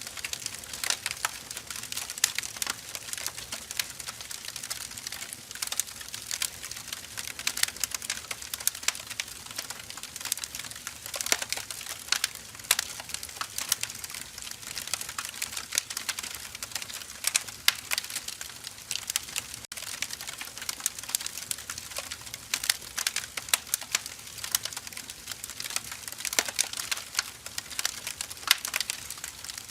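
Firewood logs burning, crackling and snapping irregularly over a steady hiss of flame.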